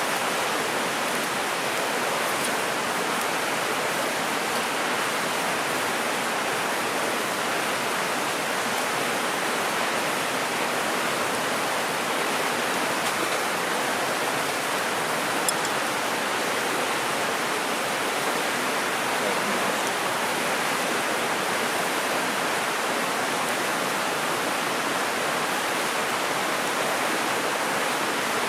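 Mountain river water rushing steadily over rocks, with one small click about halfway through.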